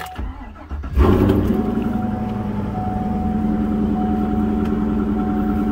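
Pickup truck's engine starting: a short stretch of cranking, then it catches with a jump in level about a second in and settles into a steady idle.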